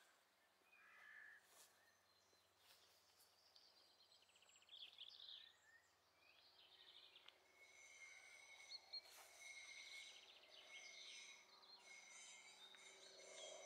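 Faint birdsong over quiet outdoor background noise: several small birds chirping and trilling, growing busier about halfway through.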